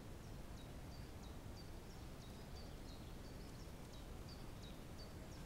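A bird calling over and over in woodland: short, high notes, each a quick falling sweep, about three a second, faint over a steady low rumble.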